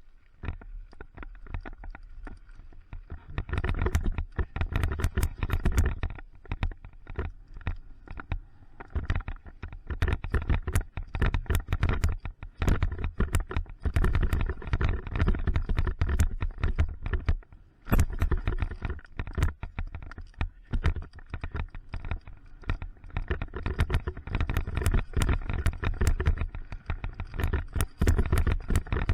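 Mountain bike riding down a dirt trail: tyres on the ground and the bike rattling and clicking over bumps, over a steady low rumble.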